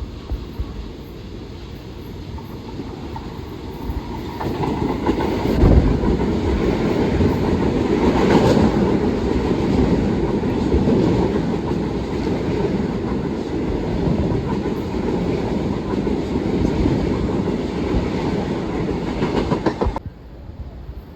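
Long Island Rail Road commuter train passing, a loud rumble with wheels clacking over the rail joints. It builds about four seconds in and cuts off suddenly near the end.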